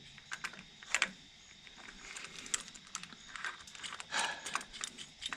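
Scattered light metal clicks and clinks as the parts of a pulley puller are handled and fitted onto the crank pulley, with a sharper click about a second in.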